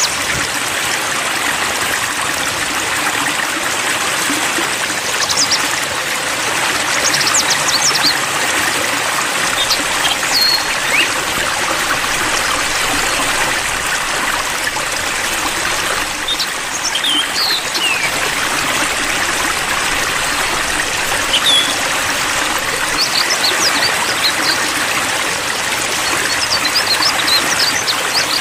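Steady trickling, splashing water like a small stream, with a few short, high bird chirps scattered through it.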